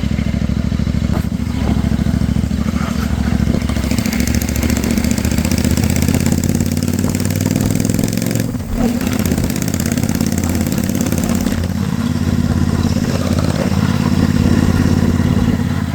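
650 parallel-twin motorcycle engine running steadily, with a brief dip in loudness a little past halfway.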